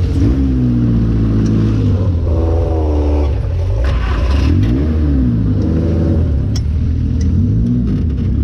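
Off-road buggy engine revving up and down while driving, its pitch rising and falling about five times.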